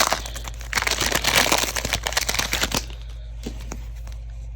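Plastic trading-card pack wrapper crinkling and tearing as it is pulled open by hand, stopping a little under three seconds in, followed by a few faint clicks.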